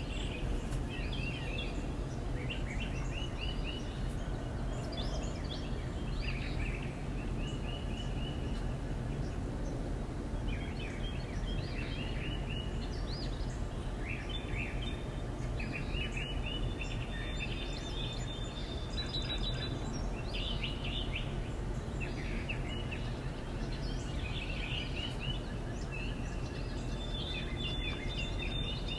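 Backyard songbirds chirping and calling, short repeated notes from several birds one after another, over a steady low rumble of background noise.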